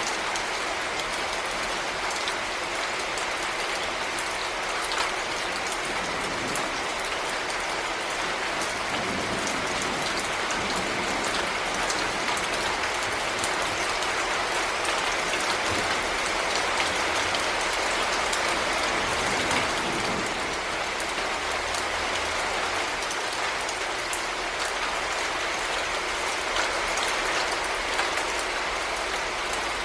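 Heavy rain falling steadily, a dense even hiss crackling with many small drop impacts.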